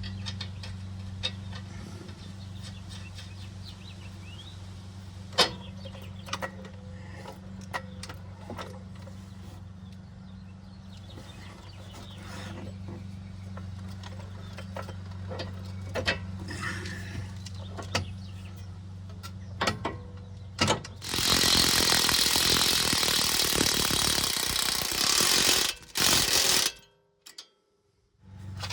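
Hand tools clicking and clanking on a car's front suspension, with ratchet-like clicks over a steady low hum. About 21 seconds in, a loud, even rushing noise runs for about five seconds.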